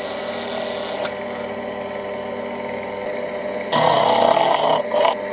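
Proxxon hobby milling machine's spindle motor running steadily, then, a little over halfway in, an end mill starts cutting metal with a much louder, harsher noise. The cutting eases for a moment and resumes near the end. The cutter is running below its rated speed, which the machinist blames for the noise.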